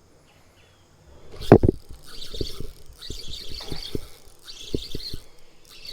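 A bird chirping in short bursts about once a second. Over it come a loud thump about one and a half seconds in, then a run of short knocks close to the microphone.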